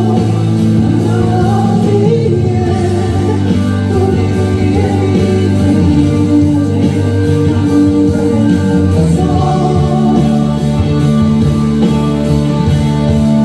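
Band music from a slow song: sustained chords with guitar, and singing over them.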